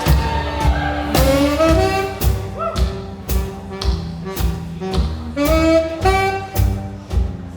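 Small live jazz band playing: a saxophone melody over double bass and drums, with a steady swing beat of sharp hits about two a second.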